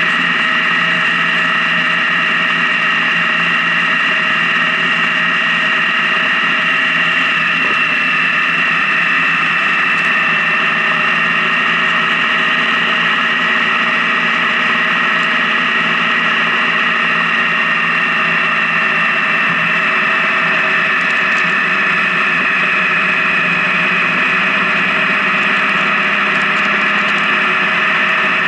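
Honda Gold Wing motorcycle running steadily at highway cruising speed, its engine giving an even, unchanging drone.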